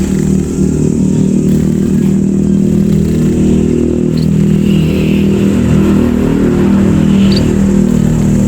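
A steady, loud low mechanical drone, like a motor running, with two brief high chirps, about four and seven seconds in.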